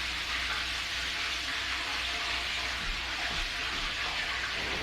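Steady sizzling of flour-dredged whole trout frying in hot oil.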